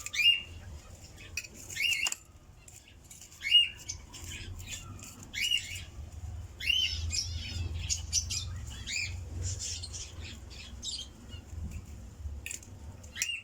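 Caged small pet parrots calling: short, arched squawks repeated every second or two, with softer chatter between them.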